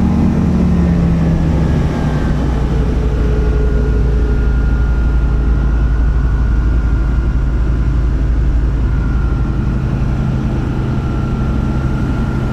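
Single-engine light aeroplane's piston engine running. Its pitch drops within the first two seconds as it settles to a lower speed, then it runs steadily.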